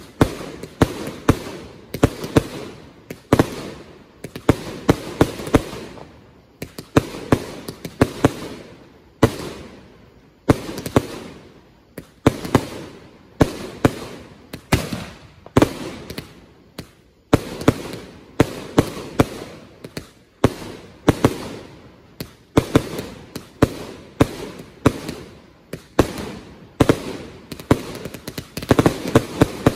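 500g firework cake (barrage) firing shot after shot: loud sharp bangs in rapid clusters, several a second, with short lulls between volleys.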